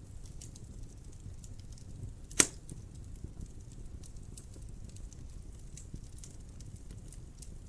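Wood fire burning in a fireplace, a low rumble of flames with scattered faint crackles, and one sharp loud pop a little over two seconds in.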